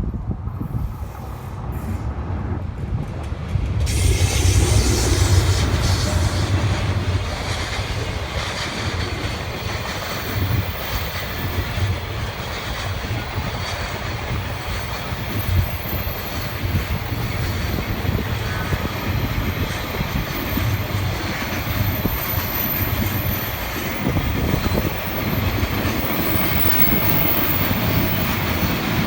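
A train passing over a level crossing: steady rumble and rattle of wheels on the rails, growing louder about four seconds in and running on as the cars go by.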